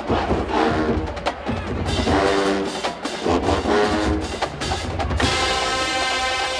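Marching band playing live: a drumline with heavy bass drums beats out a steady pulse under brass chords, and the horns hold a long, full chord near the end.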